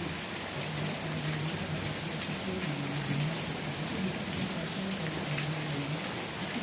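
Steady rain falling, an even dense patter with scattered sharper drop ticks. A low hum that shifts a little in pitch comes and goes underneath.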